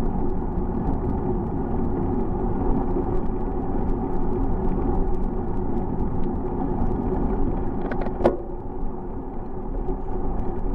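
Steady rumble of wind and rolling noise from riding a bicycle, with one short sharp click about eight seconds in, after which the noise eases slightly.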